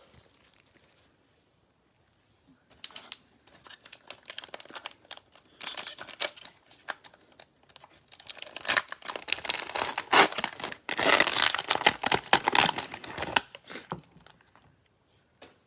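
Plastic wrapper of a Prizm football cello pack crinkling and being torn open. It is quiet for about the first two seconds, then comes in irregular crackles that grow dense over several seconds in the second half and die away near the end.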